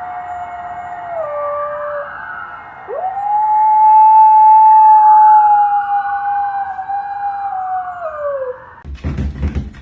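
A dog howling: a long held howl, then a louder one that rises in about three seconds in and sinks away near the end. A beat of music comes in just before the end.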